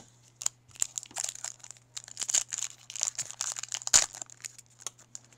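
Foil wrapper of a 2012 Topps Chrome baseball card pack crinkling and tearing as it is opened. The crackle is rapid and irregular, with its sharpest snap about four seconds in.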